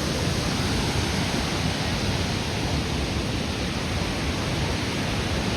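Steady roar of a large waterfall, water pouring and crashing into its pool close by.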